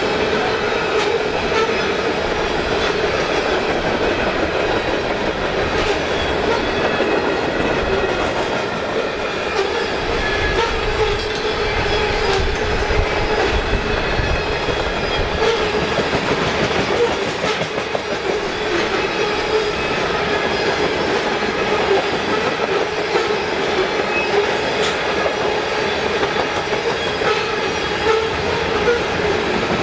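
Loaded CSX freight cars rolling steadily past, wheels clacking over the rail joints with a continuous rumble and a thin metallic whine from the wheels.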